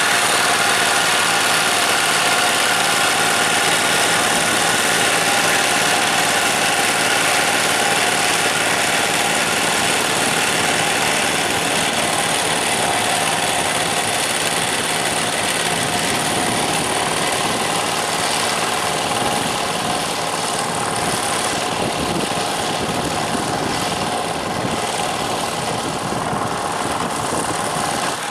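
Diesel tractor engine running steadily under a working load, easing slightly in level in the second half.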